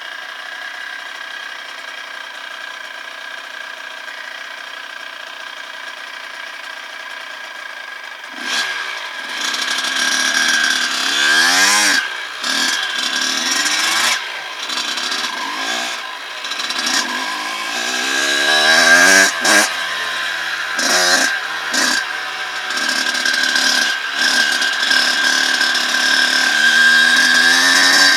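Dirt bike engine: a steady, quieter drone for about eight seconds, then it gets louder and revs hard, its pitch rising and falling again and again as the bike accelerates and backs off.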